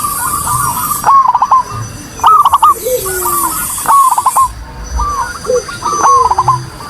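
Zebra doves (perkutut) cooing: repeated phrases of short, arched, whistled notes, a new phrase about every second, with a lower-pitched bird answering in between.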